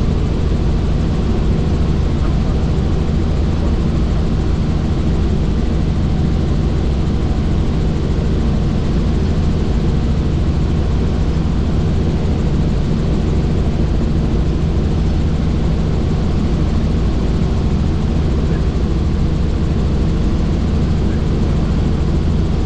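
Helicopter in flight, its engine and rotor making a loud, steady drone of several low tones that holds without change.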